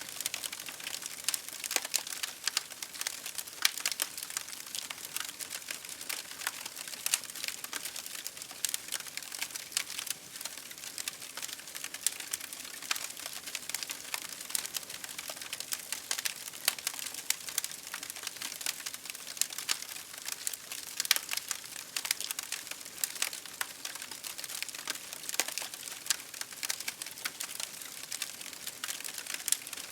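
Wood fire crackling: a steady hiss with dense, irregular sharp pops and snaps throughout.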